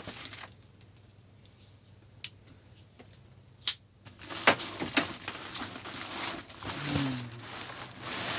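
Packaging crinkling and rustling as it is pulled open by hand. A quiet pause of about three seconds in the first half is broken by a couple of sharp clicks, and the crinkling starts again about four seconds in.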